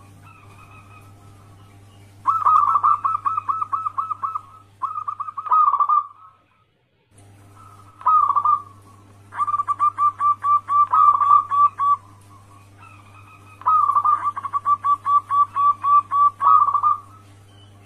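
Zebra doves (perkutut) cooing in repeated phrases of quick, evenly spaced staccato notes, about five a second, over a steady low hum. The sound drops out for about a second around six seconds in, then the cooing resumes.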